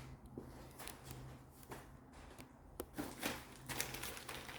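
Faint rustling and a few light clicks from supplies being handled, over a low steady hum.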